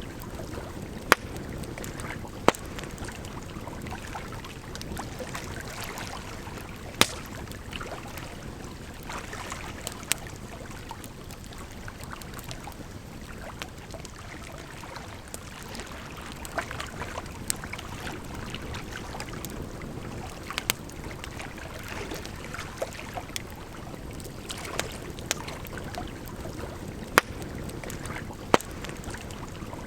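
Wood fire crackling with irregular sharp pops, a few much louder than the rest, over a steady rush of flowing water.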